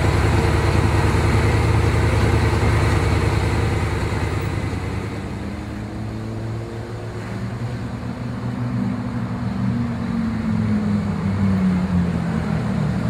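Bugatti Veyron's W16 engine running with a low, steady note at first. After about eight seconds its pitch rises and then falls as the car drives.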